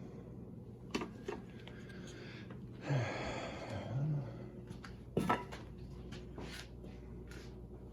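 A few sharp knocks and clatters of handling, about a second in and again about five seconds in, with a breathy vocal grunt in between.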